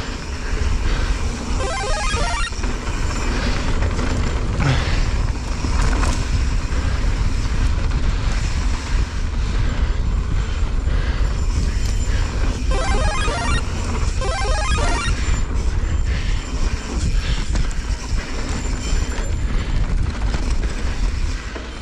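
Wind buffeting the microphone and mountain-bike tyres rolling fast over a dirt trail, with the bike rattling, during a descent. A few brief warbling tones come through about two seconds in and again around thirteen and fifteen seconds.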